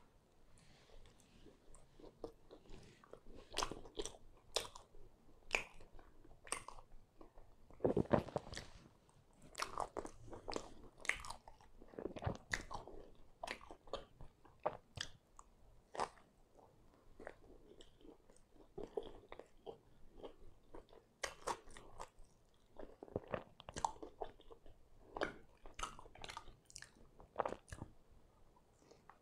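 A person biting into and chewing a slice of thick-crust pan pizza (double chicken and cheese), a steady run of irregular sharp crackles and mouth sounds, loudest about eight seconds in.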